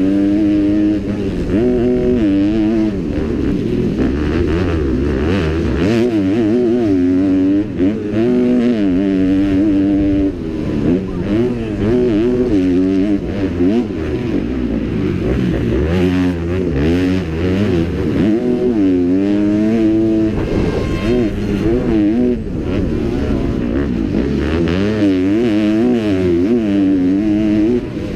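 Kawasaki motocross bike's single-cylinder four-stroke engine racing, its pitch climbing and dropping again and again as the throttle is opened and shut, with short dips where the throttle is chopped.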